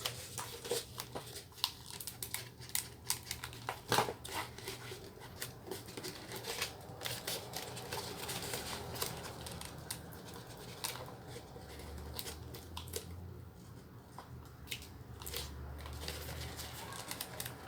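Quiet, irregular clicks, rustles and crinkles of hand crafting work on EVA foam and a plastic PET bottle.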